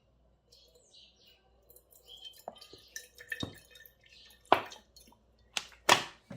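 A few sharp ticks or drip-like clicks, irregularly spaced and loudest near the end, with faint bird chirps in the first half.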